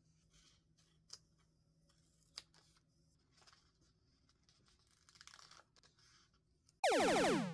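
Faint paper rustling and a few light taps, as of stationery being handled. Near the end comes a much louder pitched tone that slides steeply down and cuts off.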